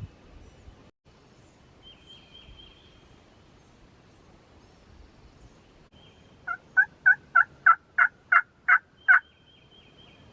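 Turkey call run by a hunter: a string of nine loud hen yelps, about three a second, starting past the middle, meant to draw a gobbler in. A small bird whistles faintly in between.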